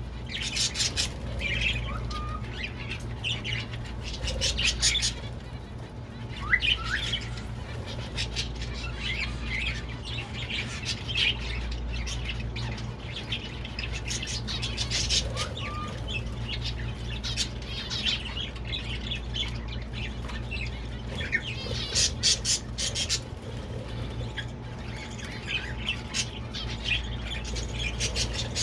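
Many caged birds chirping and squawking in short scattered calls, over a steady low hum from an air conditioner.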